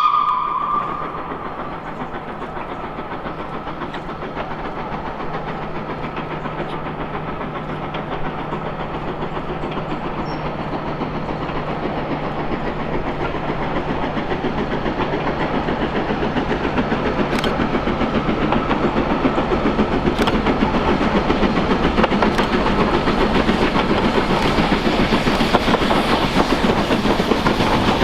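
A short whistle blast at the very start, then a steam-hauled train approaching, its noise growing steadily louder as the wheels clatter over the rail joints.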